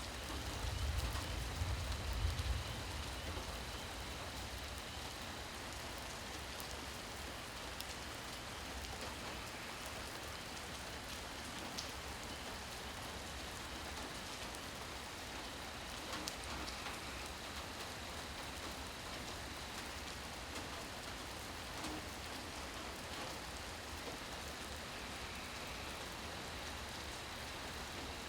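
Steady rain falling, an even hiss with scattered drop ticks. A low rumble swells in the first few seconds, then fades.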